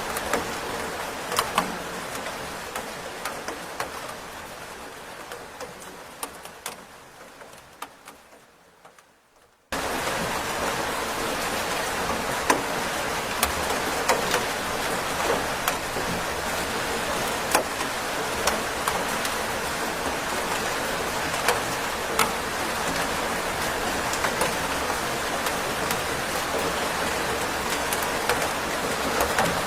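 Steady rain with individual drops ticking sharply. It fades out gradually over the first nine seconds or so to near silence, then cuts back in abruptly at full level, like a looped recording restarting.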